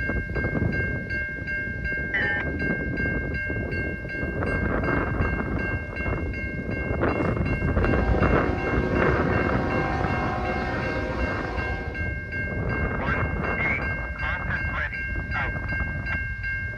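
CN freight train passing, with a dense rumble of wheels and cars and steady high-pitched ringing tones over it.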